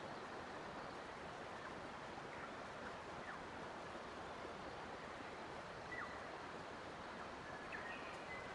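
Steady rush of flowing water, with a few faint, short bird chirps scattered over it, a couple of them close together near the end.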